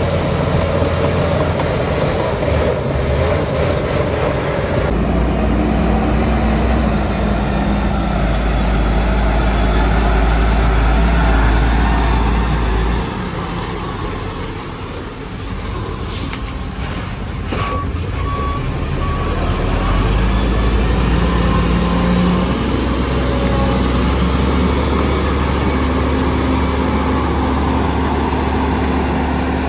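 Heavy diesel earthmoving machinery (bulldozer and dump truck) running, the engine note rising and falling with the work and easing off about halfway through. Two short sharp sounds come near the middle, followed by a few short high beeps.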